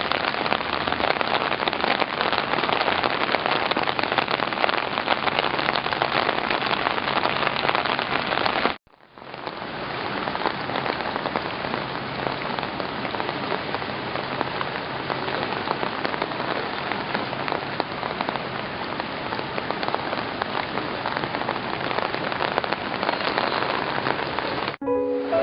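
Steady rain pouring down onto hard surfaces as an even hiss. It is broken by a sudden cut about nine seconds in, then carries on slightly softer.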